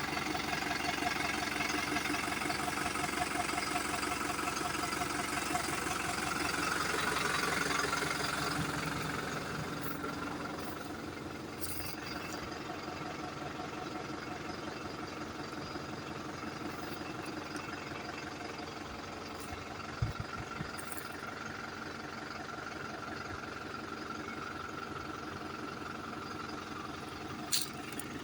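New Holland TT4.90 tractor's diesel engine running steadily while pulling a harrow, louder for the first several seconds and settling to a lower, even level about ten seconds in. Two brief sharp clicks, one about two-thirds through and one near the end.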